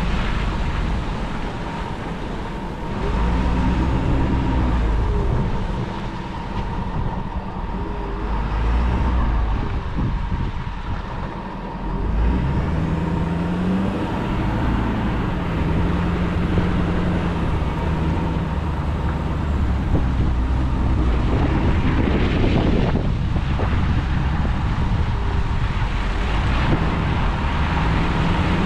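Truck engine running while driving, its pitch rising and falling as it speeds up and slows, with tyre and road noise.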